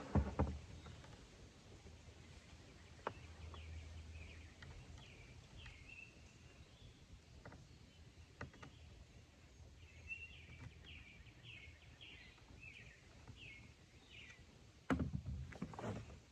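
Rifle parts being handled: a few scattered clicks and knocks, loudest just after the start and again near the end. A bird sings runs of short repeated chirps in the background.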